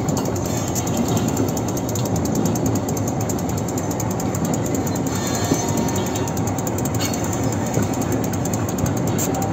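Train running along the track, heard from aboard: a steady rumble of wheels and running gear with light clicking from the rails.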